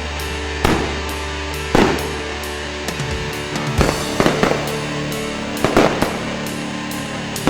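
Fireworks going off: five or six loud bangs spaced about a second apart, some in quick pairs, with crackle between. Steady music plays underneath.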